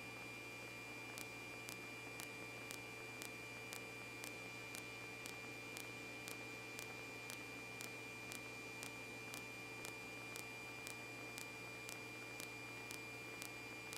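Faint hiss and steady electrical hum with soft ticks about twice a second: the background noise of a police radio recording between transmissions.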